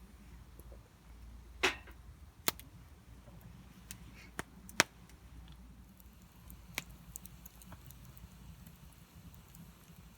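A few sharp, separate clicks and knocks, about six in all, spread irregularly over a low, steady background. The loudest comes a little before the middle.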